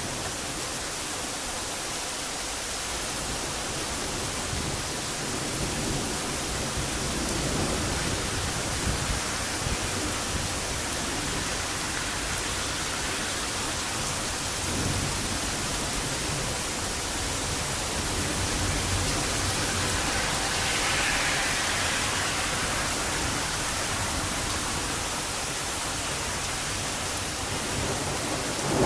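Heavy rain falling steadily in a thunderstorm: an even, unbroken hiss.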